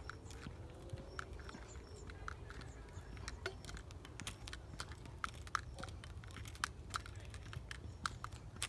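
Irregular sharp clicks and ticks, several a second, over a steady low rumble.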